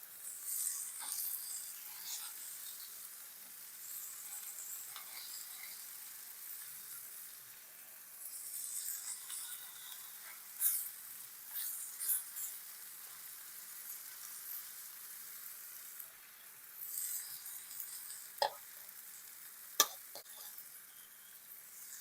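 Chicken breasts sizzling and crackling in a cast iron skillet, the burner under it just switched off. A couple of sharp taps come near the end.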